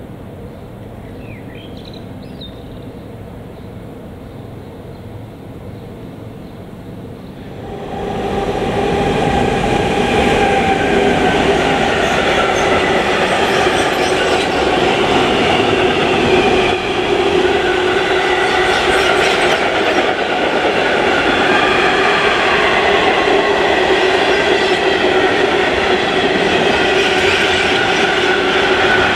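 Long freight train of steel wagons rolling past close, a loud steady rumble with ringing wheel tones held over it. It starts suddenly about eight seconds in, after a quieter low rumble.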